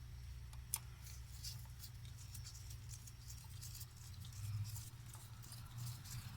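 Faint, scattered ticks and light scraping of a screwdriver snugging the two mounting screws of a purge valve, with one sharper click about three-quarters of a second in, over a steady low hum.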